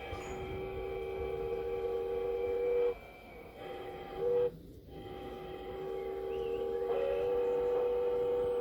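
Recorded steam-whistle sound from the Massoth XLS sound decoder in an LGB Forney model locomotive, played through its loudspeaker. It gives a long blast, a short one and another long blast, each a steady two-tone chord.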